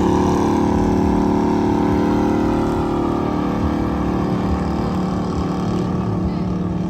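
A car engine held at steady high revs, its pitch unchanging and its level easing off slightly.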